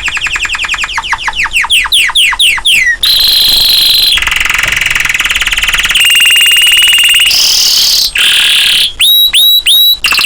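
Domestic canary singing vigorously. It starts with a run of quick falling chirps that speed up, moves into long rapid trills that jump to a new pitch every second or two, and ends with a few sharp falling whistles near the end.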